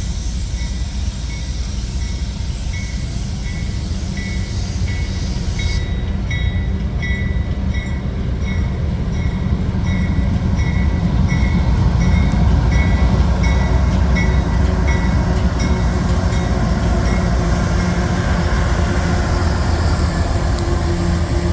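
Freight train rolling past with a steady low rumble that grows louder about ten seconds in. A regular high ping about twice a second runs from a few seconds in until about sixteen seconds in.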